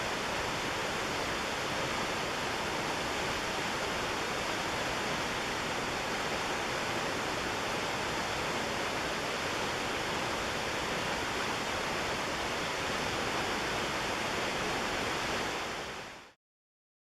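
Steady rush of the McKenzie River's whitewater and falls, fading out quickly near the end.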